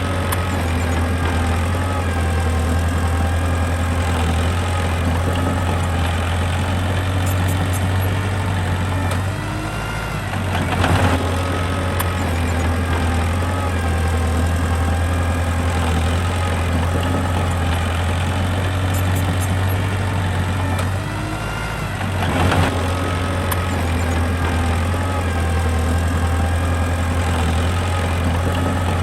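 Mini bulldozer's diesel engine running steadily. Twice its note sags and then picks up again with a brief louder surge, about a third of the way in and again about three quarters through.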